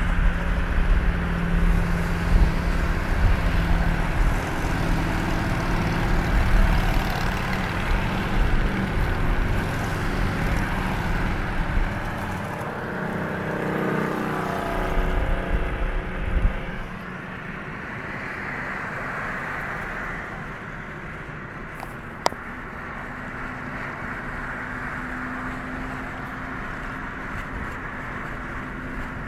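Motorcycle engine running loudly, then falling in pitch and growing quieter about halfway through, with a single sharp click near two-thirds of the way in.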